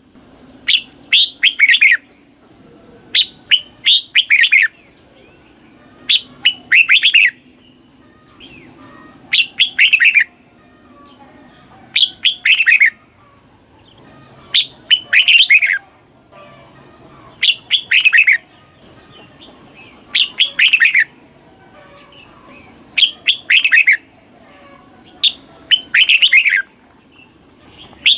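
Red-whiskered bulbul singing: short phrases of quick chirpy notes, one about every two to three seconds.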